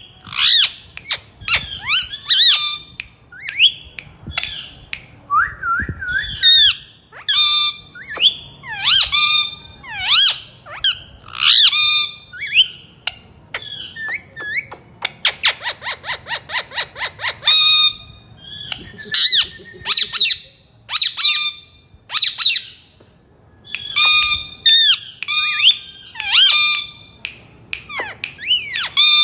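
Pet green parakeet calling over and over: shrill squawks and whistles in quick runs, with a fast rattling chatter about halfway through.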